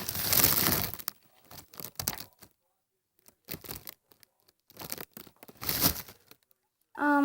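Plastic toy packaging being torn open and crinkled, in four or five short rustling bursts with brief pauses between them.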